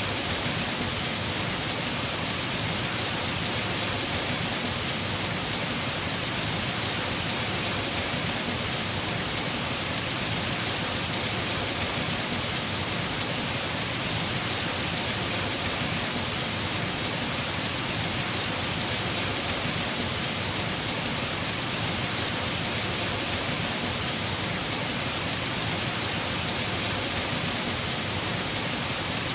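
Heavy rain falling steadily on a house roof, an even hiss of dense drops with no breaks.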